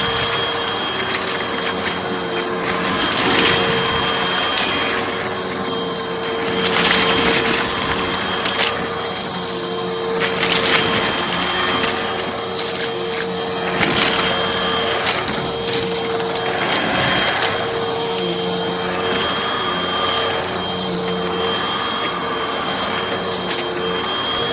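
Hoover vacuum cleaner running with a steady motor hum while it sucks up small crunchy debris, the rush of suction swelling every few seconds with fine crackling as the bits are pulled in.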